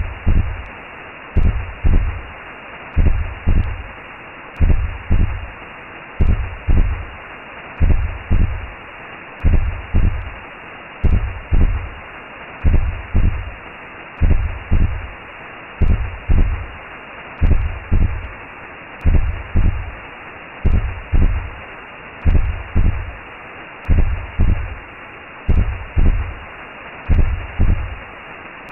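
Recreated womb sound for settling a baby: a slow heartbeat, a deep double thump about every second and a half, over a steady whooshing hiss.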